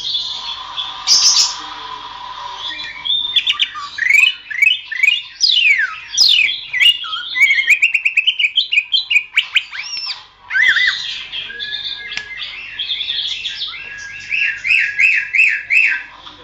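Cucak ijo (green leafbird) singing a rapid, varied song of whistled sweeps and chirps, ending in a quick run of repeated notes.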